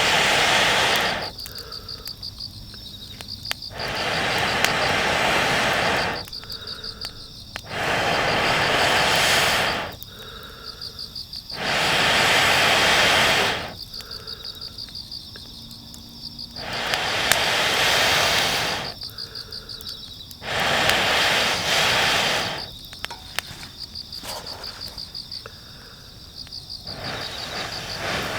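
Autumn insects, crickets, chirping in a steady rapid pulse. Over them a loud rushing noise swells up and dies away about every three to four seconds, each surge lasting around two seconds.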